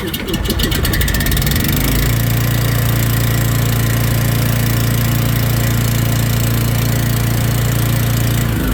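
Ford F550 truck engine running at idle. A strong steady low hum comes in about two seconds in and drops out near the end.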